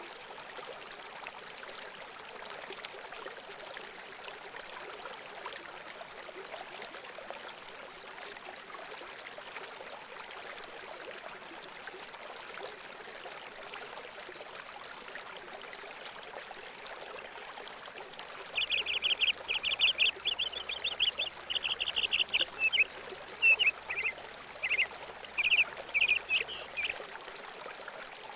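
Steady running water. About two-thirds of the way in, a bird calls loudly in a quick run of high, chattering notes for around eight seconds.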